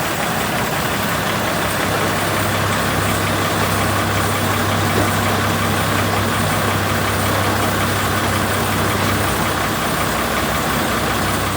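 Truck engine running steadily with a low drone, which grows stronger from about two seconds in and eases again near nine seconds.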